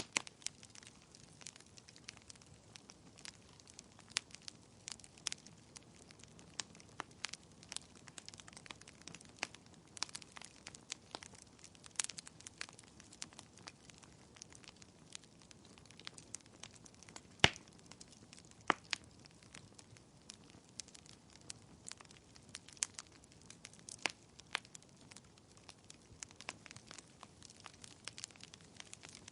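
Wood fire crackling in a fireplace: a faint steady hiss under many irregular sharp pops and snaps, with one louder pop about two-thirds of the way through.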